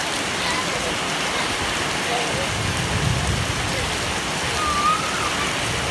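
Heavy rain pouring down steadily, an even hiss of the downpour hitting the ground.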